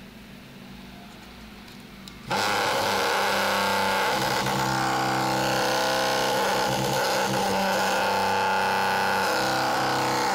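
Small vibration motor switched on about two seconds in, then running at a steady speed with a loud, even, many-toned buzz.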